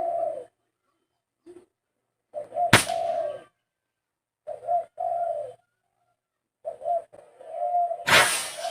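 A dove cooing in a series of short repeated phrases. A sharp crack cuts through one phrase about three seconds in, and a louder crackling burst comes near the end.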